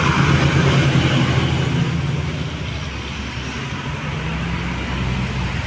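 A heavy road vehicle's engine labouring up a steep hill, its low engine note loudest at first and then fading as it goes by. Another engine builds up near the end.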